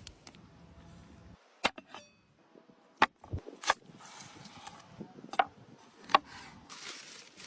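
A handful of sharp knocks and clicks at irregular intervals, with soft hissing rustle between them.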